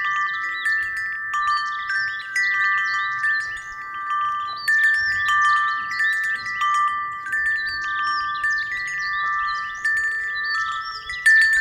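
Wind chime ringing in the breeze, several clear notes struck again and again and left to ring over one another, with a faint low rumble of wind beneath.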